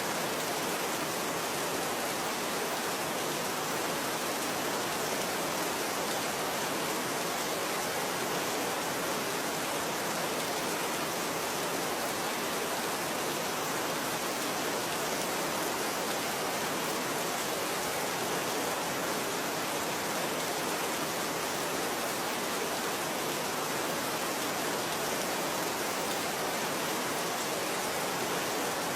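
Steady, even rainfall: a constant hiss of rain with no distinct drops or pauses.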